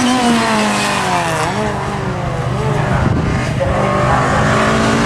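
Front-wheel-drive rally car engine driven hard: the revs fall over the first second and a half as it comes off the throttle, there is a rougher, noisier stretch, and the revs climb again near the end.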